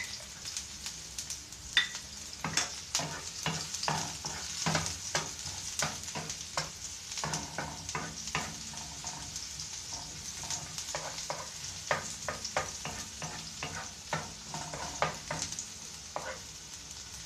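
Chopped onion and garlic sizzling in hot oil in a frying pan, with a steady hiss and frequent clicks and scrapes of a wooden spoon against the pan as they are stirred.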